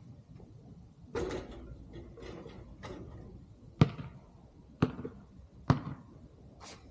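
A basketball bouncing: three sharp bounces about a second apart in the second half, with softer swishing noises before them.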